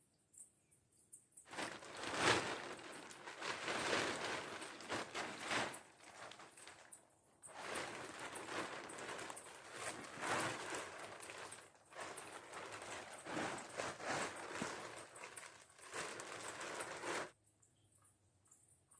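Rustling and crunching of dry leaves and twigs in uneven surges. It starts about a second and a half in and stops abruptly near the end.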